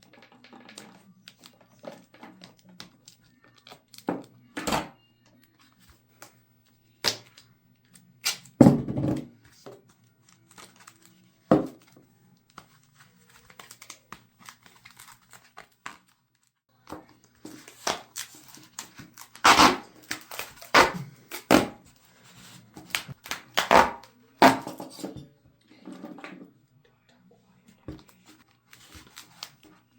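Duct tape being ripped off the roll in short, loud pulls, with quieter crinkling and handling of the tape between them; the rips come more often in the second half. A faint steady low hum runs underneath.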